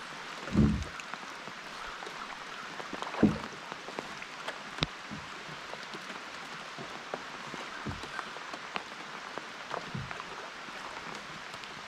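Rain falling on the river and the boat: a steady hiss dotted with many small close drop ticks. A few short, dull low thumps come through, the loudest about half a second in and another about three seconds in.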